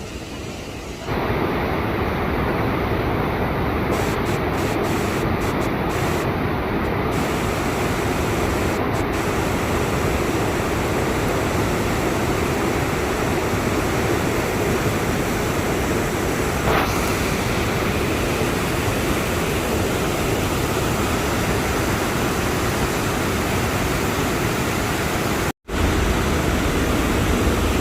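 Rushing water of a waterfall in a gorge: a steady, loud wash of noise, louder from about a second in, with a brief dropout near the end.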